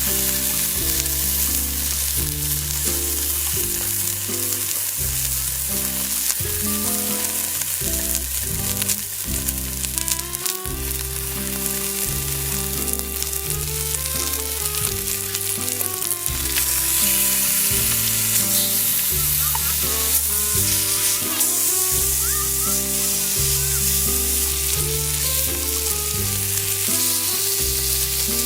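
Food sizzling and frying in a Dutch oven, a steady hiss, under background music with a stepped bass line and chords.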